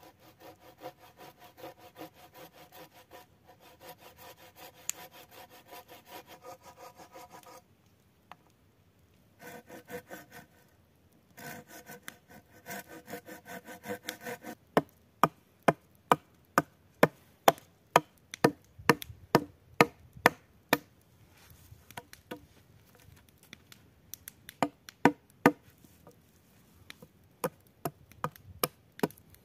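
Wood being cut with a hand saw in quick rhythmic strokes that stop twice. Then come sharp chopping strikes into wood, about two a second, which are the loudest sounds.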